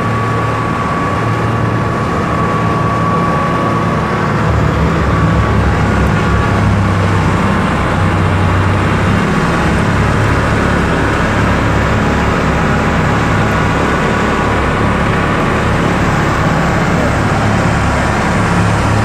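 Heavy snow-clearing vehicles running steadily, with a low engine rumble that grows louder about four seconds in, and a thin steady whine that fades out soon after.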